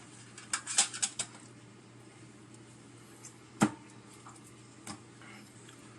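Kitchen utensils clinking and knocking against dishes or a board: a quick run of clicks about half a second in, one sharp knock in the middle and a lighter one near the end.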